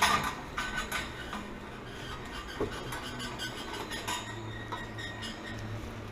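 Scattered metallic clinks and knocks of tools and fittings being handled, the loudest a sharp knock right at the start, over a low steady hum.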